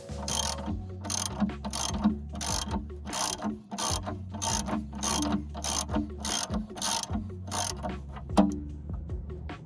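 Hand socket ratchet worked in steady back-and-forth strokes, its pawl clicking about two to three times a second, stopping near the end.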